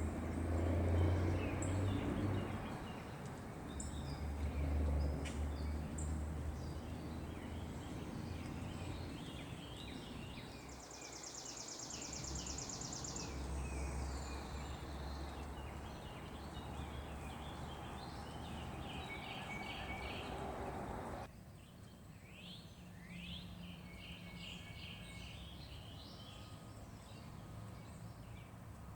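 Low, steady rumble of heavy trucks' diesel engines that stops abruptly about two-thirds of the way through, with birds chirping throughout.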